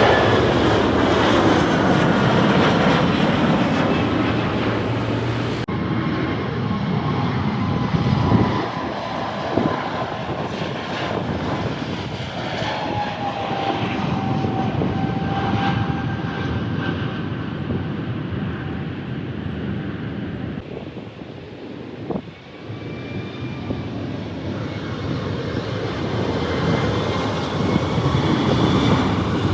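Jet airliners on landing approach passing close by: a broad engine rush with whining tones that slide down in pitch as each goes past. The sound changes abruptly about six seconds in and again near twenty-one seconds.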